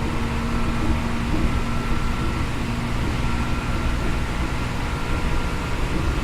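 Inside a Seibu New 2000 series electric train car under way: a steady rumble of the running gear on the rails, with a few faint steady tones from the equipment.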